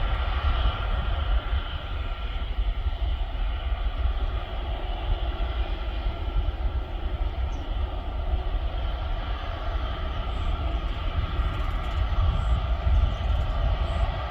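Airliner jet engines running, a steady whine over a low rumble.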